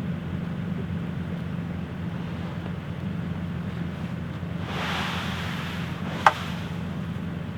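Steady low hum of an idling vehicle engine under wind noise. A rushing swell about five seconds in is followed by one sharp metallic click with a short ring.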